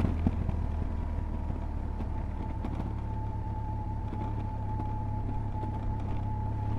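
A 2007 BMW R1200GS's boxer-twin engine running steadily at low revs, a low even drone. A thin, steady high whine joins it about two seconds in.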